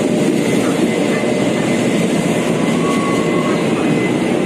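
Train running, a loud steady rumble with a faint steady whine above it.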